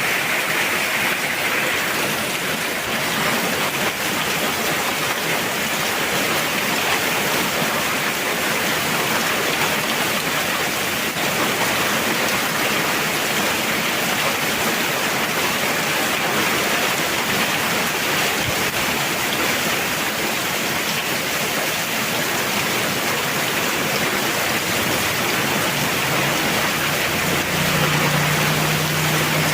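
Heavy rain pouring steadily, an even, dense hiss with no break. A faint low hum comes in near the end.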